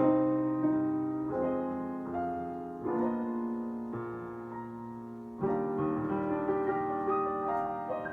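Slow piano playing: sustained chords struck every one to two and a half seconds, each left to ring and fade before the next.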